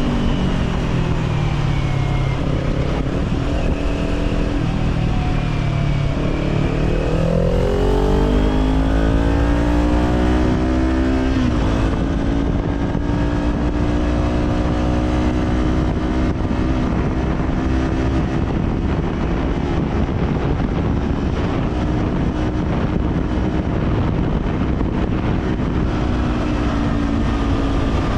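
Kawasaki Z400's parallel-twin engine through an Orion Katya slip-on exhaust, heard from the moving bike with wind noise. Revs drop early on, then climb steadily to a quick upshift about eleven seconds in, after which it cruises at a fairly steady pitch.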